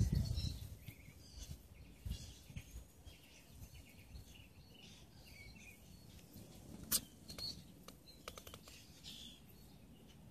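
Sulcata tortoise biting and chewing food: one sharp crunch about seven seconds in and a quick run of crunching clicks a second later. Small birds chirp throughout, and low thumps come at the start.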